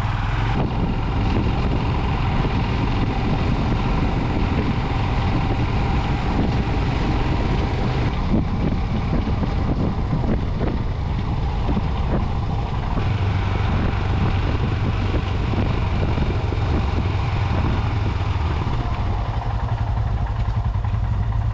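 Motorcycle engine running steadily on the move, a continuous low drone with road noise.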